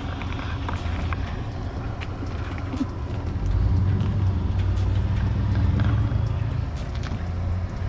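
A car engine running with a low, steady rumble that grows louder about three and a half seconds in, with scattered light clicks over it.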